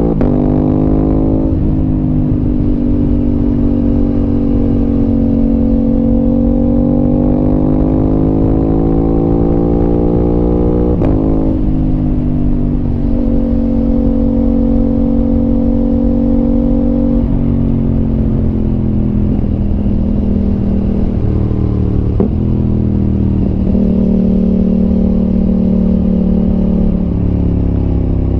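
Aprilia RS 660's parallel-twin engine running through an SC Project exhaust under way. The revs climb and then drop sharply at gear changes, about four times, with steadier cruising stretches between.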